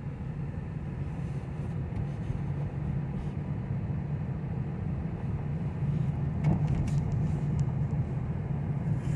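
2009 Pontiac G5 rolling and slowing with a low, rough rumble and knocking from a wheel, louder as it slows. This is the sign of loose lug nuts letting the wheel shift on its hub.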